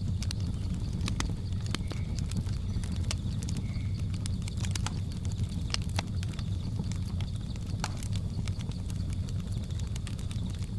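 Wood fire crackling, with irregular sharp pops over a steady low rumble. Under it runs a steady high drone of jungle insects, and two short faint chirps come about two and four seconds in.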